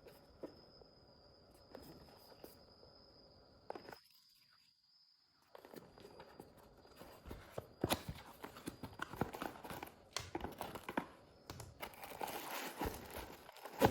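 Crinkling and rustling of packaging being handled, with scattered taps and clicks, busier and louder in the second half after a brief near-silent gap. A faint steady high whine runs under the first half.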